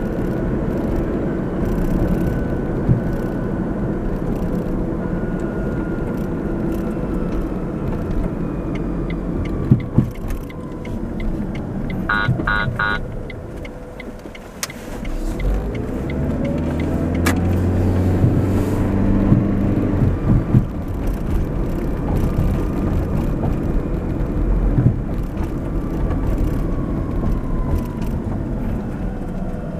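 A car driving on the road, with steady engine and tyre noise and other vehicles passing. About twelve seconds in come three quick short beeps, and a few seconds later a heavier engine hum swells and fades as a vehicle goes by.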